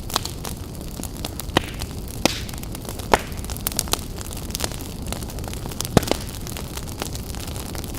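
Campfire crackling: irregular sharp pops and snaps, the loudest about six seconds in, over a steady low rumble.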